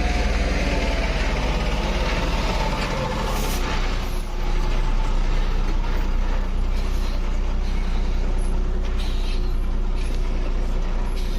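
Heavy truck's diesel engine running steadily, with a short hiss of air about three and a half seconds in.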